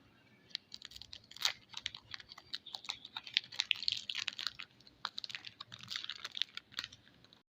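Soap packaging being unwrapped by hand: dense, irregular crinkling and crackling of the wrapper.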